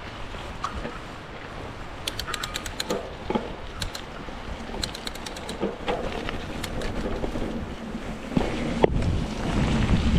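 Wind buffeting the microphone in stormy weather, a steady rushing noise, with a couple of short runs of rapid clicking and a few scattered knocks.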